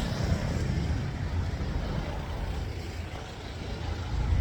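Steady low rumble of a car in motion, road and engine noise without clear speech.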